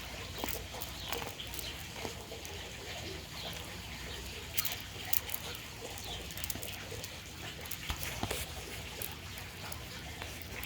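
Bird calls: short chirps scattered through, mixed with sharp clicks and taps.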